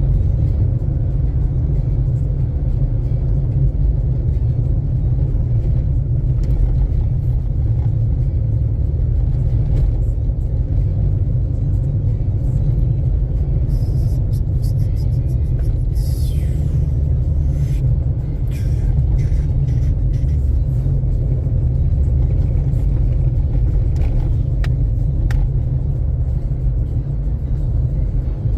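Steady low rumble of a car driving, heard from inside the cabin: engine and tyre noise, with a few faint clicks near the middle.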